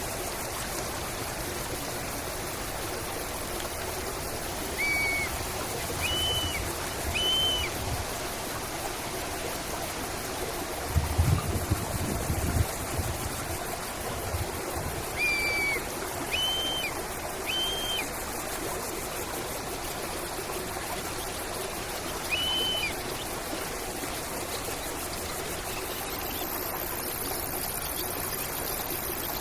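Stream trickling steadily, with a bird's short whistled notes in groups of three or four, repeated several times. A few low thuds come about a third of the way in.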